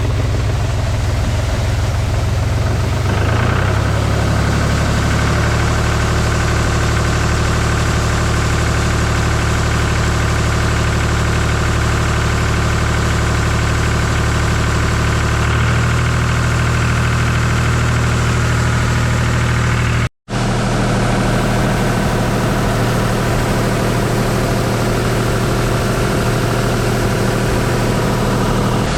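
Farm tractor engine running steadily, its note shifting a little a few seconds in and again about halfway through. The sound cuts out abruptly for a split second about two-thirds of the way through, then resumes.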